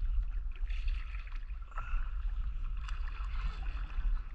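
A kayak being paddled: water sounds from the paddle strokes, with a few short splashes about a second apart over a steady low rumble.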